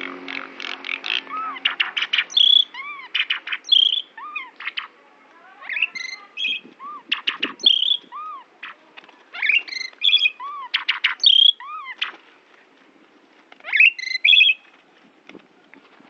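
Javan pied starling (jalak suren) singing: a quick rattle of clicks, then short arched whistles and sharp chirps repeated in phrases with brief pauses, its song mixed with imitations of other birds.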